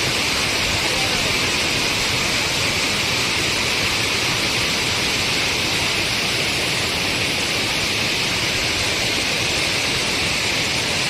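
Steady rushing water of a fast-flowing river, an even hiss that does not change.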